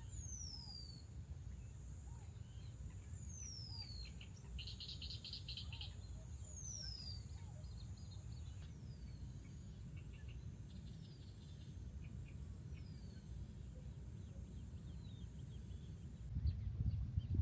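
A bird repeating a thin, high whistle that slides down in pitch every two to three seconds, with a few short chirps between, over a steady high hiss and a low outdoor rumble.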